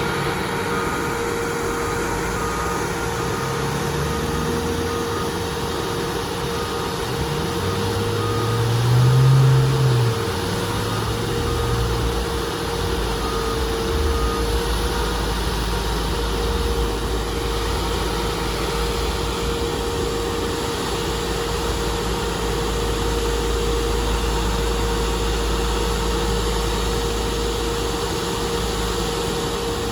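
Heavy diesel paving equipment running steadily at an asphalt paving site, with a constant whine. Faint repeated beeping sounds through the first half. The engine note swells and rises briefly about nine seconds in, then settles.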